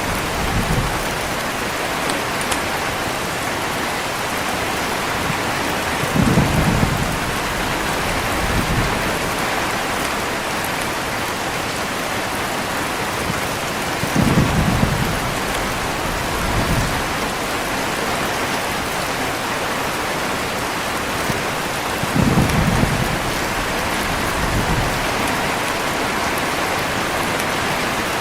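Heavy rain falling steadily, with low rolls of thunder about every eight seconds. Each roll is followed by a smaller one a couple of seconds later, three times in all.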